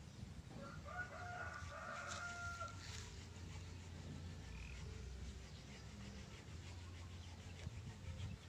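A rooster crowing once, beginning about a second in and ending on a held note, over a steady low rumble.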